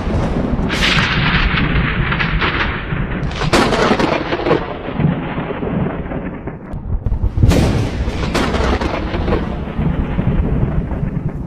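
Thunderstorm: thunder rumbling steadily, with sharp crackling peals about one, three and a half and seven and a half seconds in.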